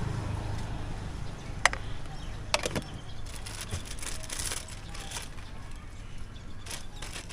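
Handling sounds from preparing fruit: a sharp knock about two seconds in, two more soon after, then light clicking and rustling, over a low steady rumble.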